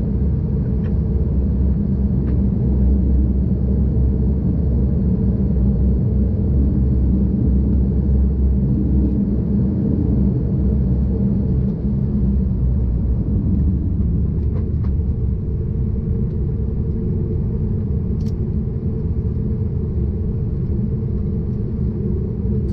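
Cabin noise of an ANA DHC8-Q400 (Dash 8) taxiing after landing, its turboprop engines running: a loud, steady low rumble with a few faint ticks.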